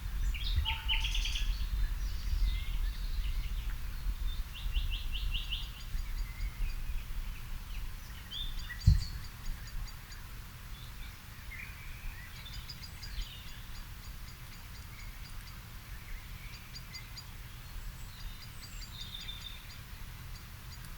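Several songbirds singing and calling: quick trills, rapid ticking series and short chirps, with a low rumble underneath that eases after the first few seconds. A single thump about nine seconds in.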